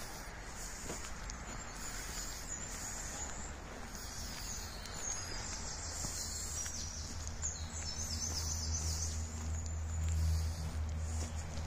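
Small birds singing, a run of high chirps and quick trills over a steady outdoor hiss. A low steady hum comes in about two-thirds of the way through and grows louder.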